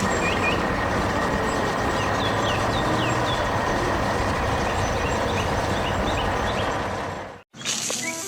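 Tractor engine running steadily, with short high chirps over it; the sound cuts out suddenly for a moment near the end.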